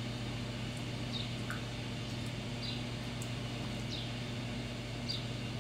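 A small bird calling with short, high, falling chirps, repeated roughly every second and a half, over a steady low hum.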